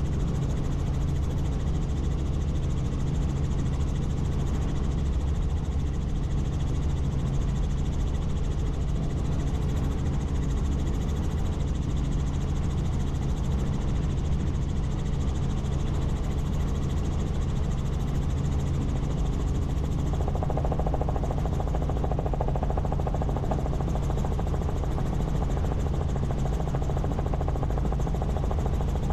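Helicopter in flight: a steady drone of rotor and turbine engine, with a slightly higher hum joining about two-thirds of the way through.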